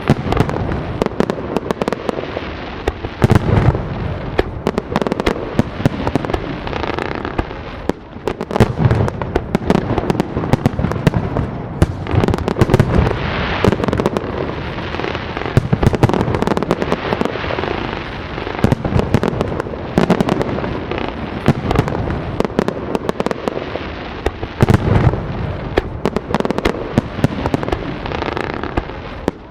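Fireworks display: a steady barrage of crackling and popping shells, with deep booms every few seconds echoing out.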